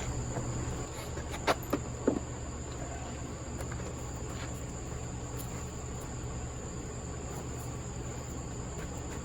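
A steady high-pitched whine over a low background hum, with a few light clicks and knocks about one and a half to two seconds in.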